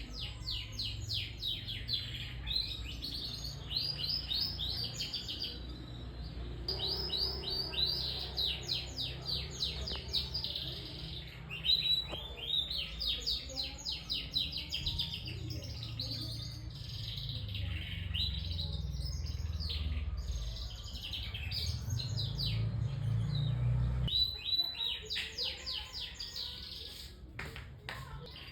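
Domestic canary singing: long runs of rapid, repeated chirps and trills with only brief breaks.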